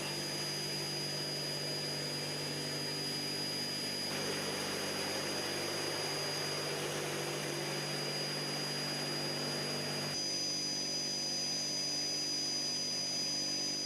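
Steady aircraft engine noise with a high, thin whine over a low drone, changing abruptly about four and ten seconds in.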